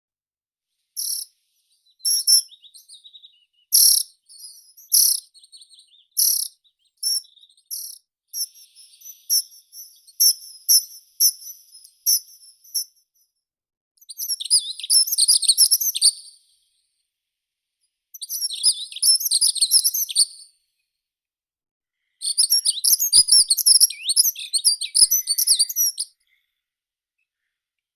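A meadow songbird first gives a run of short, sharp, high calls, one every second or so. It then sings long phrases of rapid, jumbled warbling, each two to four seconds long, with pauses of a second or two between them.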